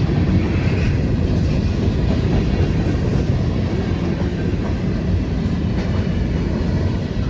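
Freight cars of a passing CSX freight train rolling by, a steady low rumble of steel wheels on the rails.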